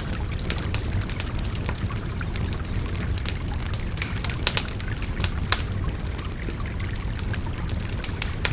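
Campfire crackling with many sharp pops and snaps, over a steady babbling river.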